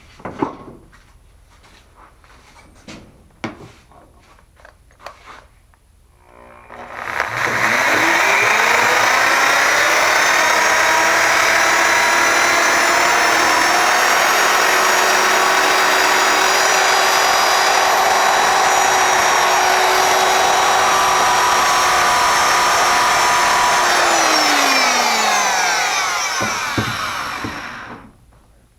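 Several handling clicks, then a corded electric power tool's motor spins up, runs steadily and loud for about sixteen seconds while taking the last bit of rust off a steel wrench, then winds down with falling pitch and stops.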